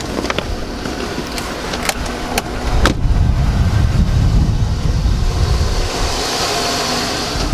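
Chevy Avalanche's 5.3-litre V8 idling, heard near the open engine bay, with a few light clicks in the first three seconds. A low rumble grows louder about three seconds in.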